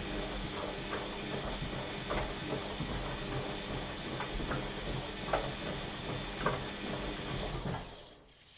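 Washing machine running mid-programme, its motor turning the drum with a steady hum and irregular clicks and knocks, then winding down and stopping about eight seconds in.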